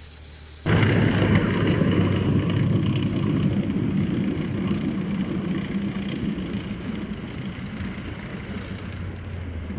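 A heavy vehicle engine running steadily with a low hum, cutting in suddenly about a second in and slowly fading.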